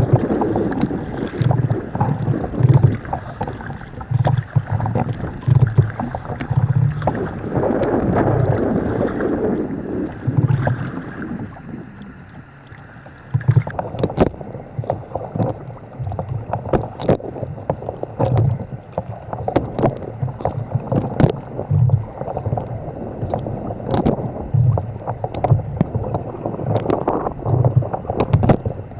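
Sea kayak being paddled through light chop: water sloshing and slapping against the hull in low thuds about once a second, with sharp drips and splashes from the paddle. The water noise eases briefly around twelve seconds in, after which the splashes and drips stand out more.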